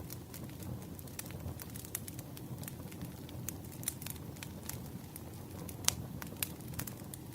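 Firewood burning: a steady low rush of flames with many irregular sharp crackles and pops, one louder pop about six seconds in.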